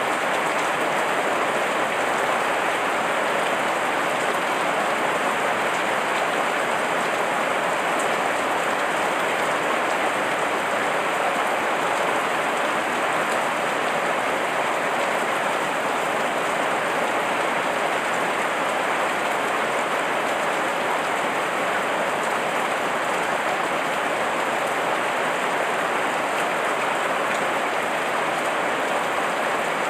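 Heavy rain falling steadily: an even, unbroken hiss of drops that never changes in strength.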